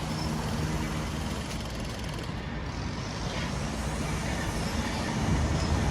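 Diesel engines of demolition-site machinery and lorries running steadily, a dense engine rumble that swells a little near the end.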